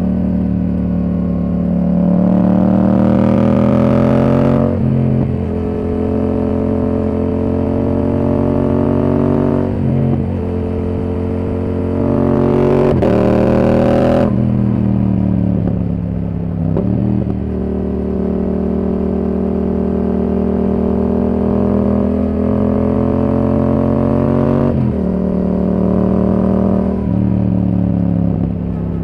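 Yamaha R7's parallel-twin engine through a Yoshimura R77 exhaust, heard from on the bike while riding: the pitch climbs under acceleration and drops sharply about four and fourteen seconds in, then holds steadier at cruise with smaller rises and falls.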